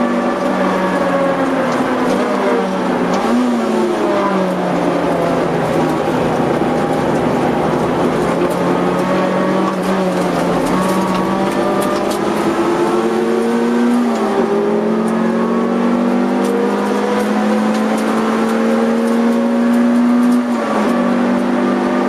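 Honda CR-X EE8's 1.6-litre VTEC four-cylinder engine, heard from inside the cabin while being driven hard on track. The revs dip and blip briefly about three seconds in, then climb steadily. They fall back sharply twice with upshifts, about two-thirds of the way through and near the end.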